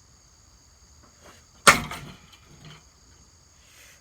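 One hard hammer blow striking the ceiling fan, with a short clattering tail, then a weaker knock about a second later. Crickets trill steadily in the background.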